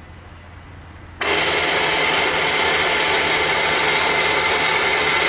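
Milling machine switched on, starting abruptly about a second in and then running steadily with a loud whine.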